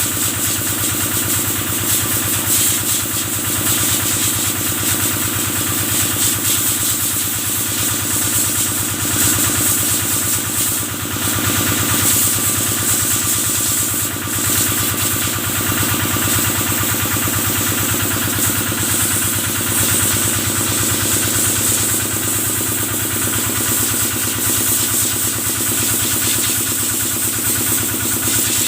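Kubota stationary diesel engine running steadily, driving a water pump for washing cattle, with a constant hiss of spraying water over it.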